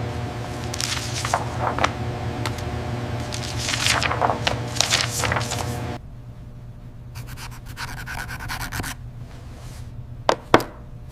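Rubbing and scraping strokes over a steady hum. After a sudden cut there is lighter scratching, then a few sharp clicks near the end.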